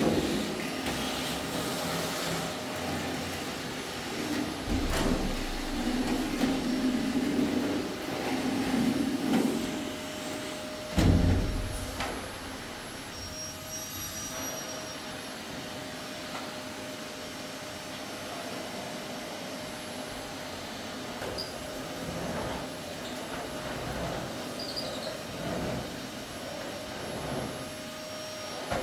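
Vacuum cleaner running steadily, its noise louder and shifting over the first twelve seconds, with a loud knock about eleven seconds in.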